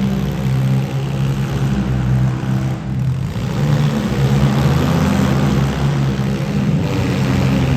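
Demolition derby car engines running loud and steady, a continuous low engine drone with no break.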